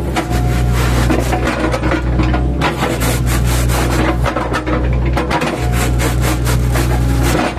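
Mini excavator's engine running steadily while its bucket shaves an oil palm trunk into chips, with continuous crackling and scraping of the fibrous wood. The machine's light weight limits the pressure it can put on the trunk, so it takes thin cuts.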